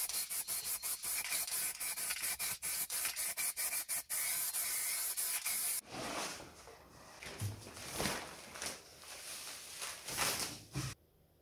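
A steady hiss broken by many brief gaps, then slower rubbing strokes on a surface about once a second, which stop suddenly near the end.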